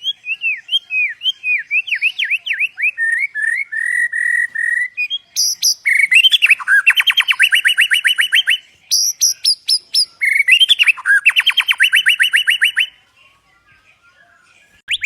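A songbird singing. It opens with a run of short whistled notes that slide downward, then breaks into two fast trills of about nine notes a second, with a brief pause between them. The song stops about two seconds before the end.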